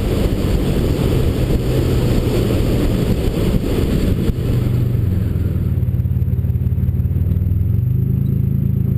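Turbocharged 4.0-litre V6 of a 2007 Mustang running at low revs, with a loud rushing wind noise that dies away about four and a half seconds in. After that a steady low engine note is left.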